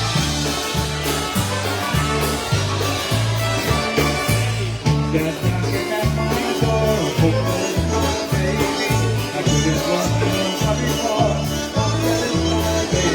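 Live polka band playing an up-tempo polka, with a steady oom-pah bass beat and vocals.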